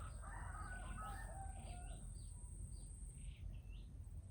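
Faint, repeated short bird calls, with a steady high-pitched whine behind them that breaks off briefly after about three seconds.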